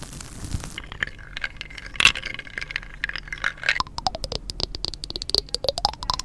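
Close-up scraping and rubbing of hard objects, with many quick irregular clicks. In the second half a squeak slides down in pitch and back up again.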